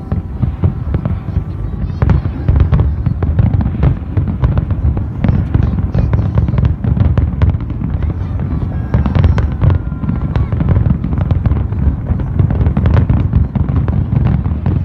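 Fireworks display: aerial shells going off in a dense, overlapping barrage of many sharp bangs a second over a continuous low rumble.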